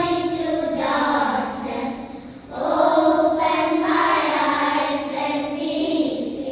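Children singing together, with a brief break about two and a half seconds in before the singing picks up again.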